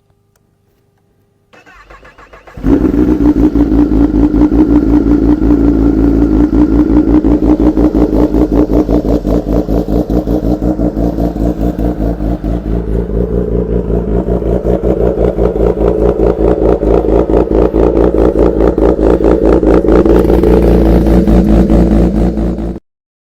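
Kawasaki Ninja ZX-10R inline-four with an SC-Project CR-T aftermarket exhaust cold-starting: the starter cranks briefly, the engine catches about two and a half seconds in, then runs loud and steady at a fast cold idle with rapid exhaust pulses until it cuts off suddenly near the end.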